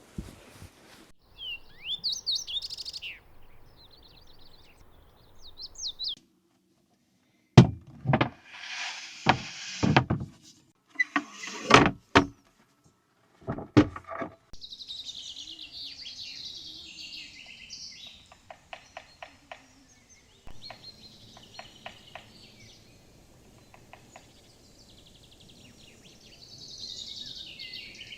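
Small songbirds chirping and singing, with rapid trills in the second half. Several loud knocks and clatters come in a cluster in the middle, like things or a door being handled.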